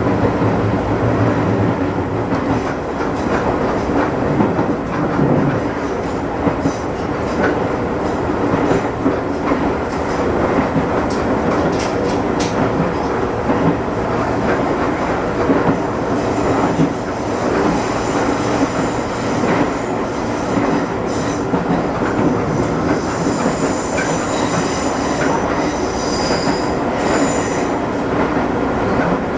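Izuhakone Railway Sunzu Line electric train running, heard from inside the car: a steady rumble of wheels on the rails with scattered rail clicks. In the second half a high wheel squeal comes and goes as the train takes the curves on this stretch.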